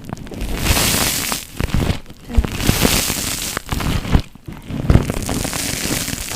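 Foam being squeezed and crushed by hand, giving bursts of crackling and crunching about a second long, with pauses between them.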